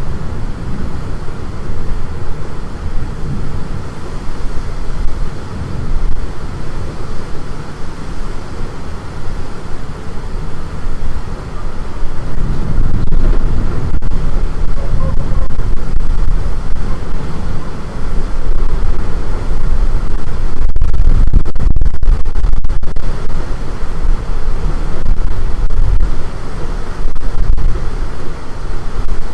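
Strong storm wind buffeting the microphone: a loud, irregular low rumble that grows louder about twelve seconds in.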